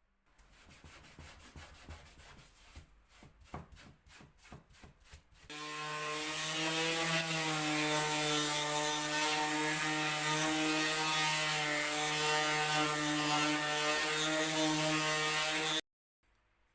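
Clicks and scraping of hand work on wood. About five seconds in, a small power tool motor starts and runs at a steady speed for about ten seconds before stopping abruptly.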